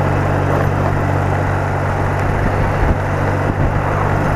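BMW R80RT motorcycle's air-cooled flat-twin engine running at a steady speed under way, with an even rush of noise over it.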